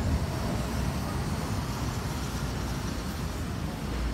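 Distant fireworks shells bursting, heard as a continuous low rumble of booms that swells slightly near the end.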